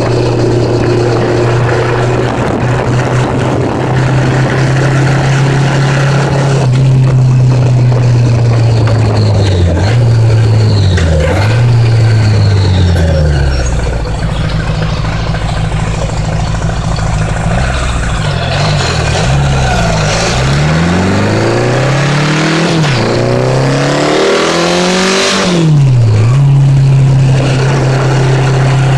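1980s Honda Gold Wing motorcycle engine under way, first at a steady drone. From about a third of the way in, its pitch dips and climbs several times as the revs change, then it settles back to a steady drone near the end.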